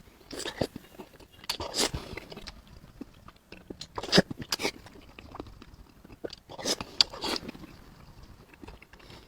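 A person biting and chewing food close to the microphone, with crisp, crunchy bites coming in about four short clusters and quieter chewing between them.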